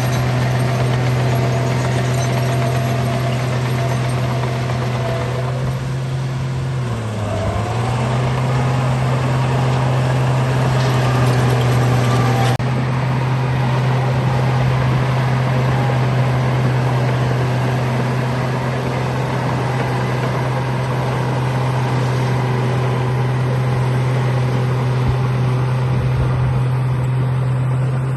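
Bulldozer's diesel engine running steadily at a constant pitch. About seven seconds in, its pitch sags briefly and then comes back up.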